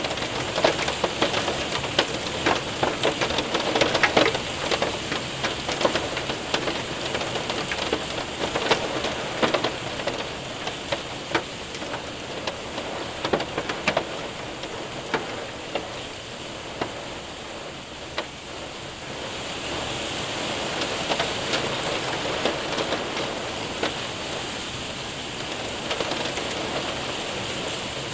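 Hail and rain hitting a window and roof: a steady rain patter with many sharp hailstone ticks, thickest in the first few seconds and thinning out. About two-thirds of the way through, a steadier rain hiss swells up.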